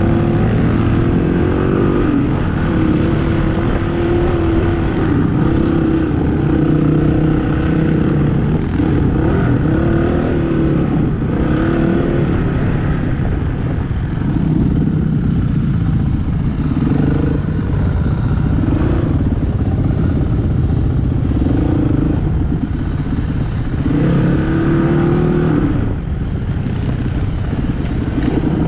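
Off-road motorcycle engine running while riding, the revs rising and falling again and again.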